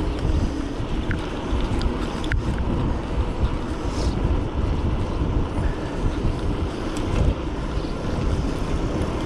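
Wind buffeting a GoPro action camera's microphone on a moving electric bike: a steady, rumbling rush, with a couple of faint ticks.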